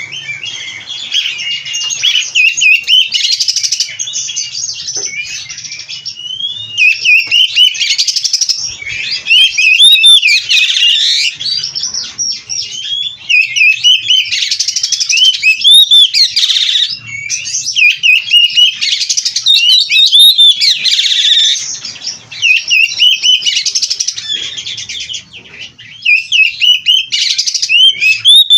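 Oriental magpie-robin (kacer) singing loudly and continuously: a fast, varied run of whistles, trills and chirps packed with mimicked phrases, with only short breaks between bursts.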